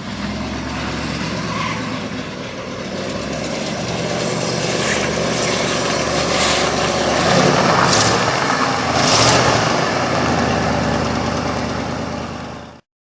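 A 1966 Ford Thunderbird's V8 running under way on its first test drive after sitting since 1993, with road and wind noise; it grows louder in the middle as the car pulls harder, then cuts off abruptly near the end.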